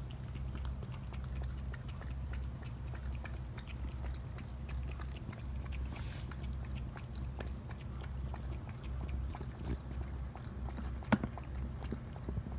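A cat close to the microphone: a low hum pulsing about once a second, with many small scattered clicks and one sharper click near the end.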